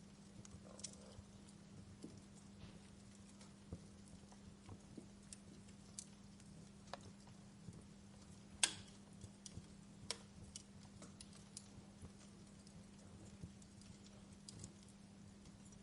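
Wood fire crackling in a fireplace: irregular pops and snaps, the loudest crack a little past the middle, over a faint steady hum.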